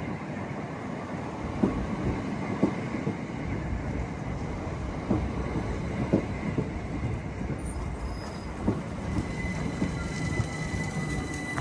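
Train running on the rails with a steady rumble and a scatter of sharp clicks from the wheels over the track, and a thin high wheel squeal near the end.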